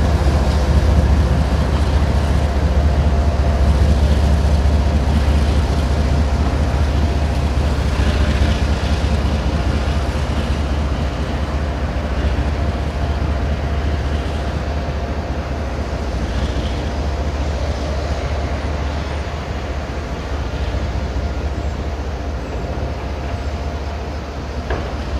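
Kansas City Southern diesel locomotive and a train of grain hopper cars rolling away on the rails: a steady low engine rumble with wheel noise, slowly fading as the train pulls away.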